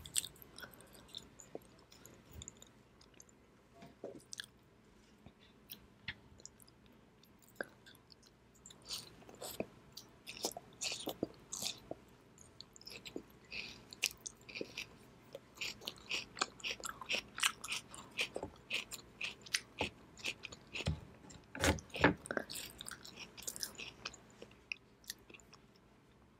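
Close-miked chewing of shredded raw daikon radish: many short mouth clicks, sparse at first, coming thicker from about a third of the way in and loudest near the end.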